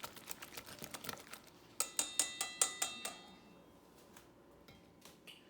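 A whisk clicking rapidly against a bowl as an egg-white and cornstarch batter is beaten, then about six sharp clinks on the bowl that leave it ringing briefly, followed by a few faint clicks.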